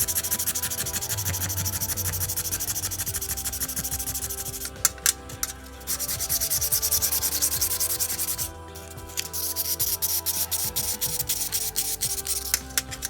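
Sanding the rust off an old kiseru, a Japanese metal pipe, with steady rubbing strokes. Two long stretches of scraping are split by a short break with a few clicks about five seconds in, and quicker, separate strokes follow near the end.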